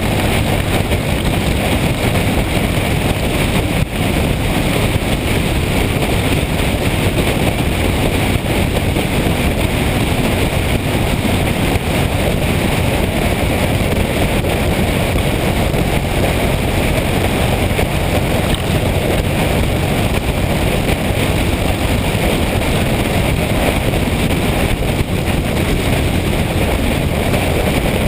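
Motorcycle under way on the road: a steady rush of wind on the microphone with road and engine noise underneath, even throughout.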